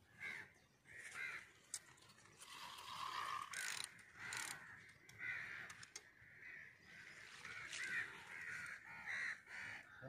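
Birds calling over and over, short arched calls one after another, with a few brief scraping or clicking noises in between.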